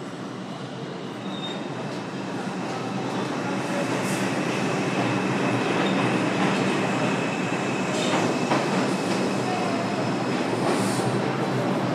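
R62A subway car running through the tunnel, its noise growing louder over the first few seconds and then holding steady. A faint high steady tone rides over the rumble, with a few sharp clicks from the wheels on the track.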